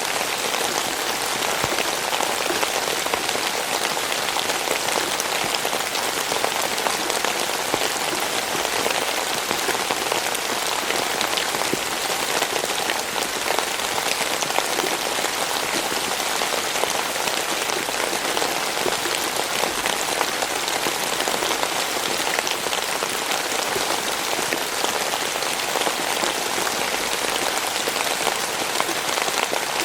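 Steady rain falling on a surface, a dense even hiss made up of countless small drop impacts.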